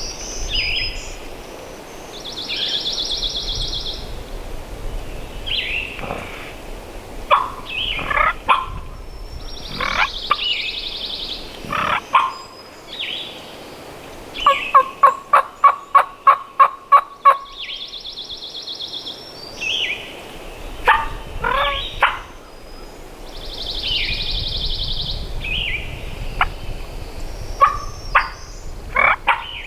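Wild turkey gobbling, several times over, with a run of about a dozen evenly spaced notes in the middle. Wind rumbles on the microphone at times.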